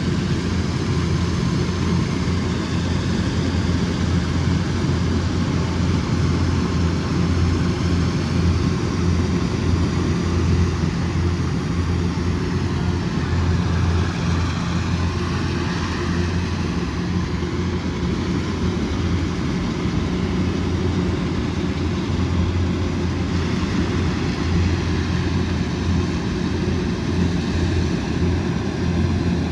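Combine harvester running steadily while harvesting, a constant low engine drone that does not change.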